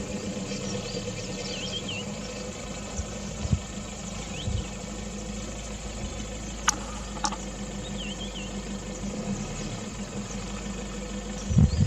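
A safari vehicle's engine idling steadily, with short high bird chirps now and then and two sharp clicks a little past halfway.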